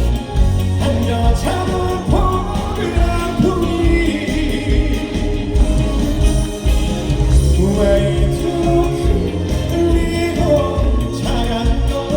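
Live trot song: singing over an amplified band backing with a strong, steady bass beat.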